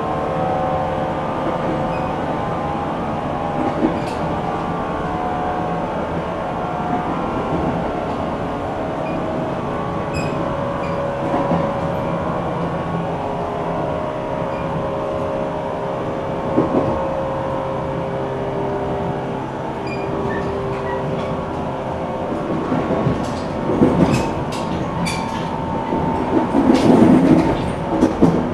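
Cabin sound of a JR West 475-series EMU motor car running: a steady running noise with a hum. A run of clacks and thumps from the wheels passing over rail joints comes in the last few seconds.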